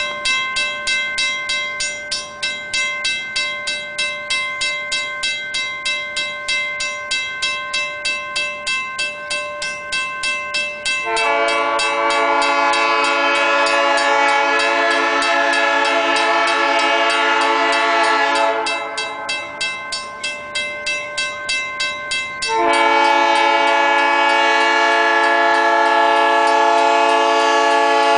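A bell clanging steadily, about three strokes a second, while the EMD SW8 switcher's air horn sounds two long blasts for the grade crossing, the first about eleven seconds in and lasting some seven seconds, the second starting a few seconds later and running on.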